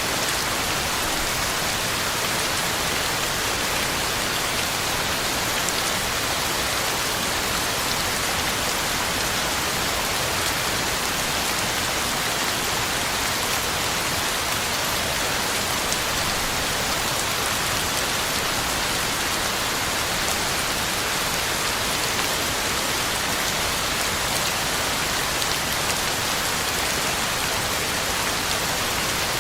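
Heavy rain falling steadily, an even hiss of drops on the ground and leaves with faint scattered drip ticks.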